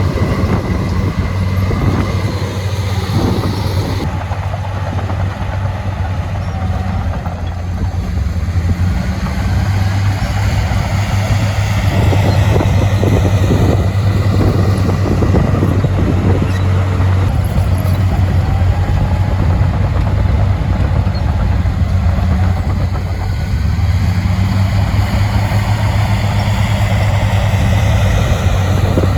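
Heavy diesel earthmoving machinery running steadily, a low even engine drone with occasional metallic knocks.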